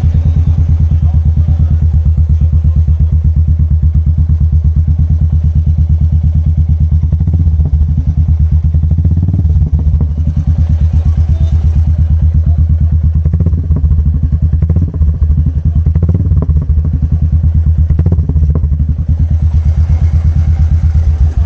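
Royal Enfield Classic 350 Reborn's single-cylinder engine idling through an aftermarket shark exhaust with the catalytic converter removed: a loud, steady, evenly spaced thump, broken by a few sharper pops in the middle stretch.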